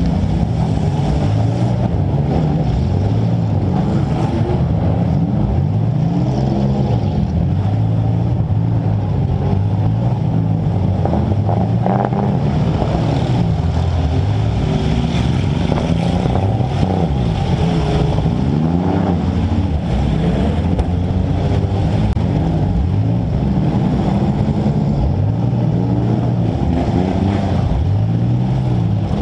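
Compact demolition derby car's engine revving up and down over and over as it drives in the mud, heard close from the hood, with a sharp knock about twelve seconds in.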